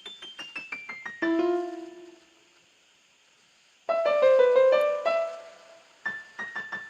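Electric piano keys part of a beat playing back: a quick falling run of short notes that lands on a chord and dies away, a pause, then a busier cluster of chords, and a few quick high notes near the end.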